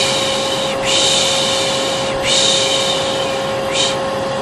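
A vacuum cleaner runs steadily with a constant hum. Over it, a person's 'shh' shushing repeats: three long shushes nearly back to back, then a short one near the end.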